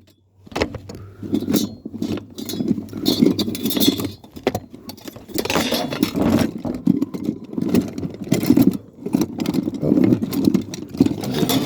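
Tools and metal parts clattering and jangling as they are handled and rummaged through: a dense, irregular run of knocks and rattles.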